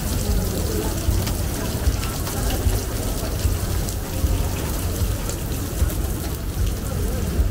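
Steady rain falling, with many sharp close raindrop ticks over a low steady rumble.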